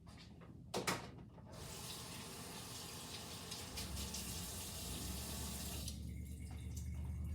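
Kitchen faucet turned on, water running into the sink for about four and a half seconds, then shut off. A couple of sharp clicks come just before it.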